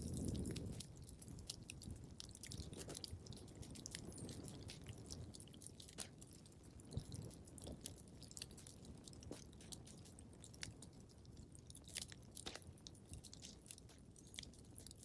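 Wood fire crackling in a fireplace: irregular sharp pops and snaps over a low steady rumble of the flames. A louder low rumble at the very start fades away within about a second.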